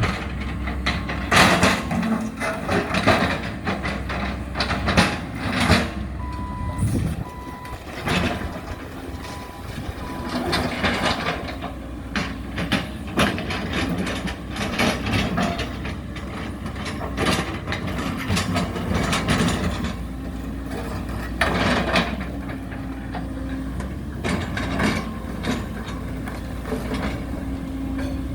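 Heavy diesel demolition machinery running steadily, with repeated crashes and crunching as the house structure is broken up. A reversing alarm beeps several times between about six and ten seconds in.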